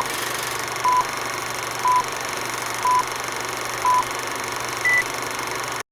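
A series of short electronic beeps: five of the same pitch about a second apart, then one higher beep, like a countdown leader. They sound over a steady hiss that starts and cuts off abruptly.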